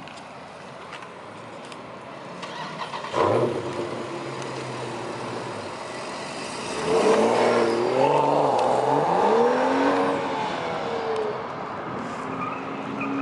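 BMW 335i's turbocharged inline-six exhaust, with the mid muffler deleted, picking up about three seconds in and then revved hard from about seven seconds. The pitch climbs, dips and climbs again for several seconds before easing off, loud enough to be called 'aggressive'.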